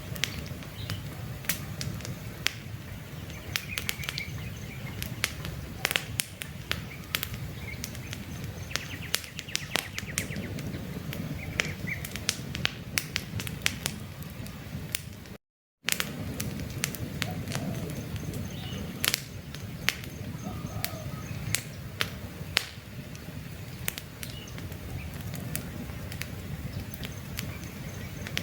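Campfire burning, with frequent sharp crackles and pops over a low steady rumble of the flames. Faint bird chirps come now and then, and the sound cuts out completely for about half a second halfway through.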